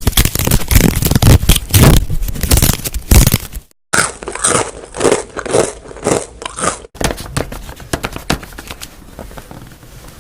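Close-miked ASMR object sounds in three cut-together clips. First comes loud, dense crunching and crinkling. After a sudden cut there are repeated strokes, about three a second, and after a second cut a softer scratching crackle.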